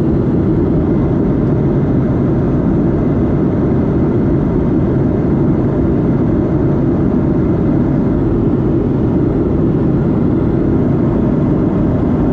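Steady, loud cabin noise inside a Boeing 737-8 seated near the engine: the CFM LEAP-1B turbofans and airflow making an even low rumble that does not change.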